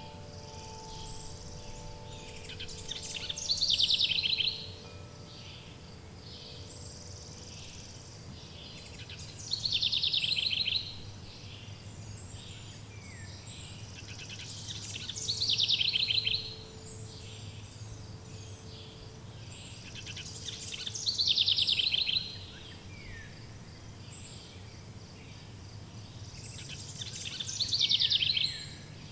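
A songbird singing the same loud, rapid trill about every six seconds, five times, each song lasting about a second and a half, over a steady outdoor hiss. Wind-chime tones ring faintly and die away in the first couple of seconds.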